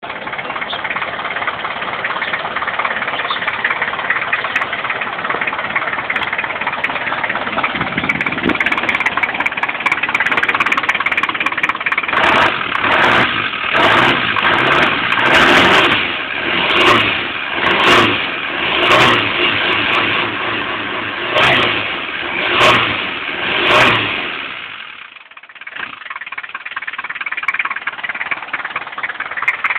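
Engine of an off-road 4x4 running with the bonnet open, then revved over and over, about once a second, each blip swelling and falling back. Near the end the revs sag sharply, almost dying, before the engine picks up again.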